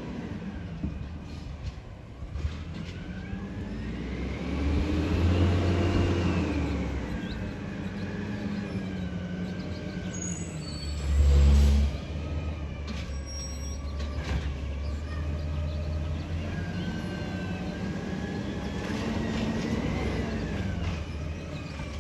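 Garbage truck engine running, revving up and back down twice. About halfway through there is a loud low thump, with a few sharp clicks and knocks around it.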